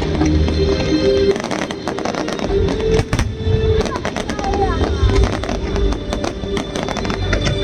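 Fireworks bursting and crackling in quick, irregular strokes, with low booms, over music and voices.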